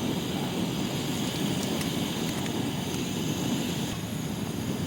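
A vehicle running: a steady low rumble with a faint hiss above it.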